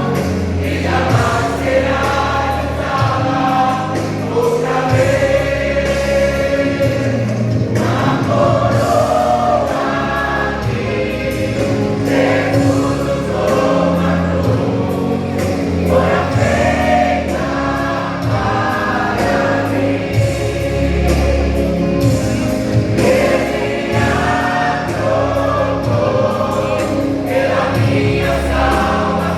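Vocal group singing a gospel worship song in several voices, over a steady low bass line.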